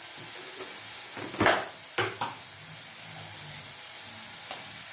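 Onion and tomato frying in oil in a pan: a steady sizzle, with a few brief sharp sounds about one and a half to two seconds in.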